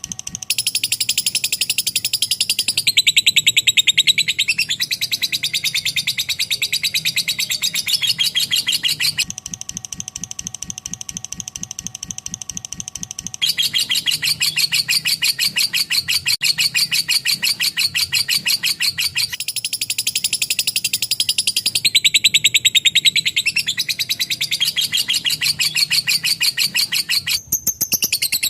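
Lovebird singing its long 'ngekek' song: an unbroken, very fast chattering trill of high, rapid chirps that goes on without pause. It swells louder in a couple of stretches and briefly dips near the end.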